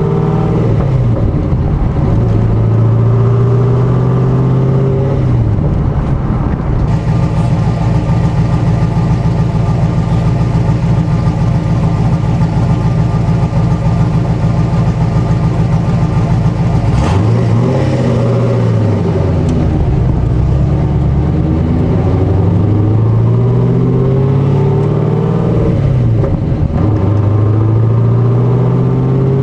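C6 Corvette V8 with a BTR Stage 3 camshaft and aftermarket headers, X-pipe and dual exhaust, running and revving: the engine note climbs and falls several times, holds steady and high for about ten seconds in the middle, then drops and climbs again.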